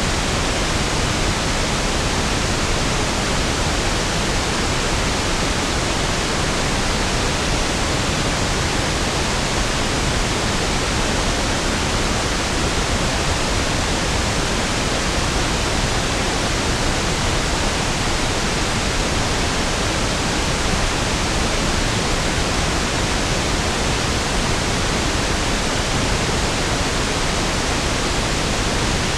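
Steady pink noise: an even, unchanging hiss with equal energy per octave, fuller and lower-sounding than white noise.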